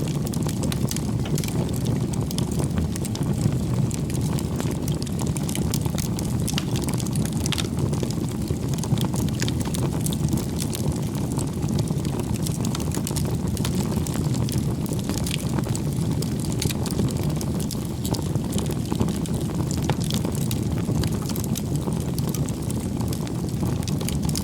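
Campfire of burning firewood: a steady low rush of flame with frequent small crackles and pops scattered throughout.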